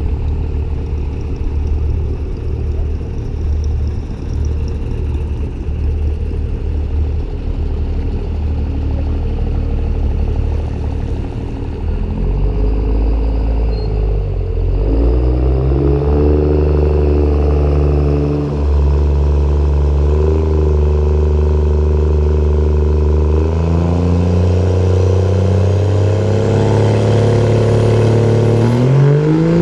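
A drag car's combustion engine idling, then held at raised revs in steady steps on the start line, revving up sharply near the end at the launch.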